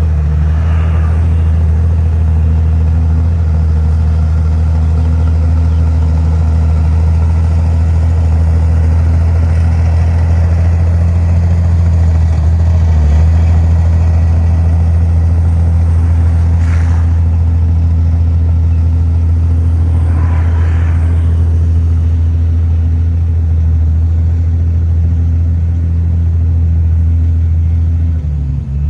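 Heavy diesel engine of earthmoving machinery running steadily under load, a deep, even hum that barely changes in pitch, with a few brief, fainter higher sounds over it.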